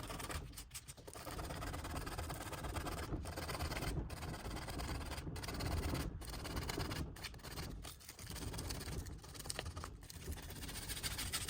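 Hand sanding with 120-grit sandpaper over wood, scraping off paint still soft from paint stripper. The scratchy rubbing comes in strokes, with short breaks about once a second.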